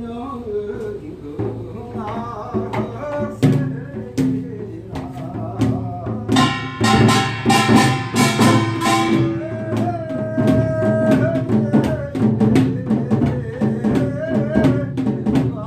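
Korean folk percussion music (pungmul): drums and clanging small gongs struck in a quick, dense rhythm, with a held melody line over it; the gong strokes grow thickest about halfway through.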